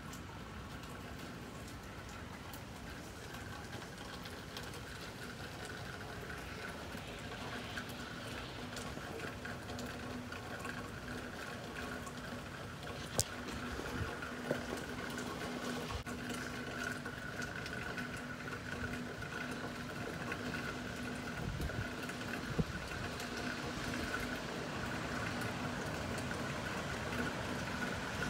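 Steady rain falling on a wet parking lot, with a faint steady hum running underneath and a few sharp clicks.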